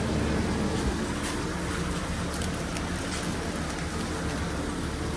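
Food-truck kitchen noise: a steady hum of the ventilation and cooking equipment under a constant frying sizzle, with a few light utensil clicks.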